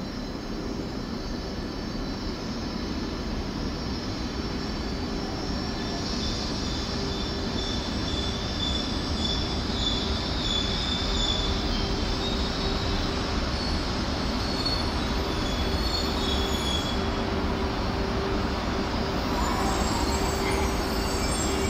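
E2 series Shinkansen train moving slowly at the station platform: steady running noise with a high whine and a lower hum, growing gradually louder.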